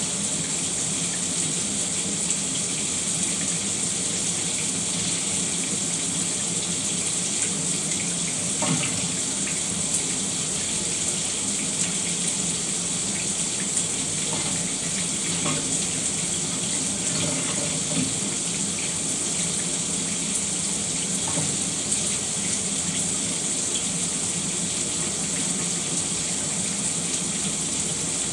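Shower spray running steadily, water hissing down without a break.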